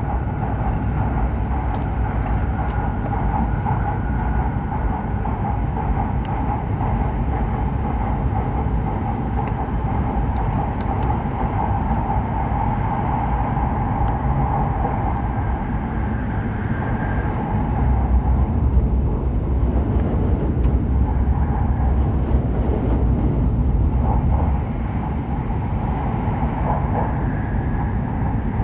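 Hokuriku Shinkansen train running, heard inside the passenger cabin: a steady rumble and hiss of running noise, with a deeper, louder rumble for about six seconds in the second half.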